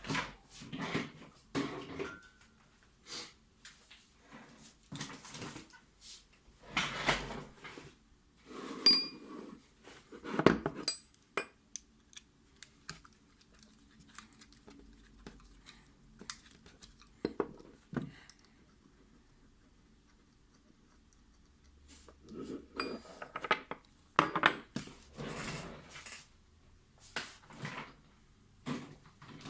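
Small metal lock parts and tools clicking, clinking and rattling as a Mul-T-Lock MT5+ cylinder is handled, in irregular clusters with a few short high metallic pings. The sounds fall mostly quiet for several seconds in the middle.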